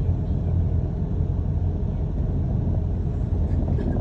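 Steady low rumble of a London bus in motion, heard from inside the passenger cabin.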